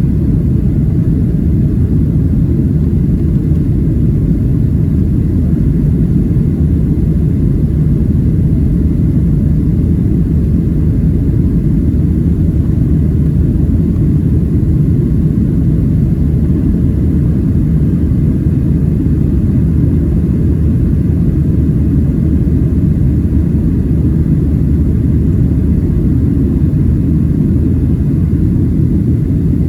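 Steady low rumble inside the cabin of a Boeing 737-700 climbing out: its CFM56-7B turbofan engines at climb power with the rush of air over the fuselage, even and unbroken throughout.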